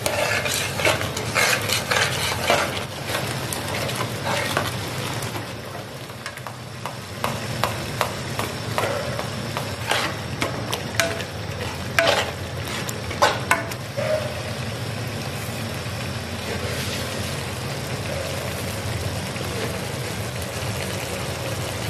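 Masala paste frying in oil in a large metal pot, sizzling steadily, while a metal spatula is stirred through it, scraping and clicking against the pot. The scrapes come in bunches and stop about fourteen seconds in, leaving the steady sizzle.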